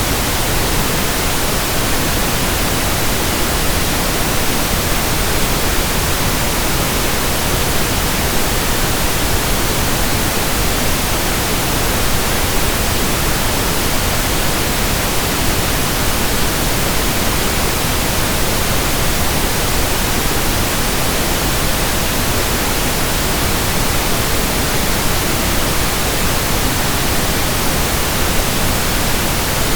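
Steady pink noise: an even hiss spread across all pitches, unchanging throughout.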